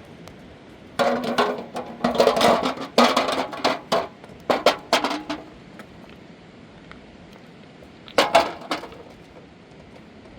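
Hard objects knocking and clinking against each other in a quick irregular run of strikes, some with a short ring, then a second brief cluster near the end.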